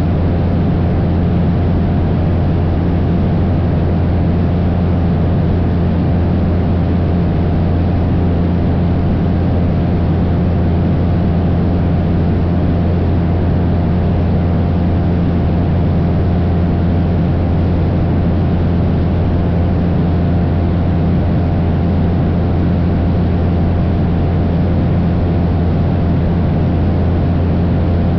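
Cessna 172's piston engine and propeller running steadily in flight, a constant low drone with a steady hum and rushing air noise.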